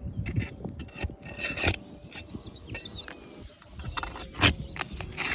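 Roof shingles being worked loose to free their nails: irregular scraping and rubbing with scattered clicks, with a few sharper strokes about a second and a half in and again near the end.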